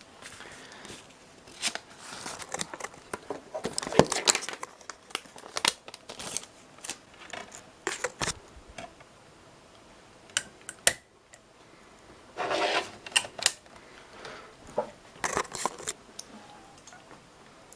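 Irregular sharp clicks, rattles and rustling of something being handled, in uneven clusters with a denser noisy burst about two-thirds of the way through.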